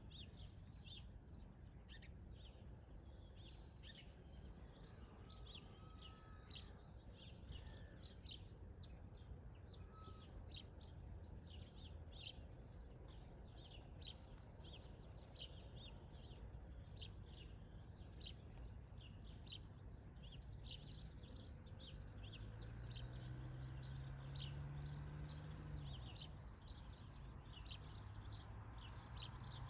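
Birds singing: a faint, steady run of short high chirps over low outdoor background noise. A low drone swells and fades briefly about three-quarters of the way through.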